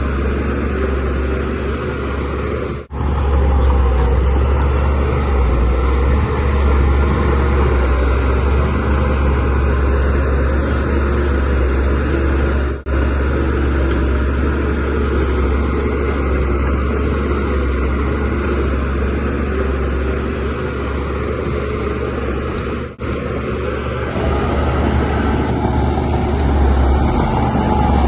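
Shantui DH17C3Pro bulldozer's diesel engine running steadily under load while it pushes soil, with a heavy low rumble. The sound drops out very briefly three times, about ten seconds apart.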